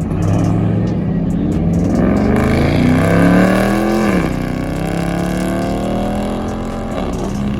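A car engine accelerating hard. Its pitch climbs for about four seconds, drops sharply at a gear change, then climbs again.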